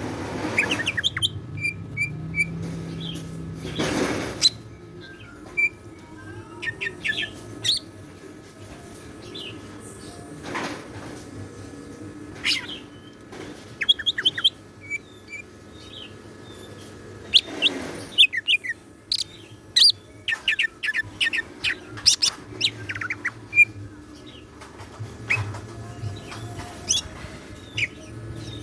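Cucak ijo (green leafbird) singing in bursts of quick chirps, whistles and trills, its full song with mimicked phrases of other birds. A few short rustling noises are mixed in.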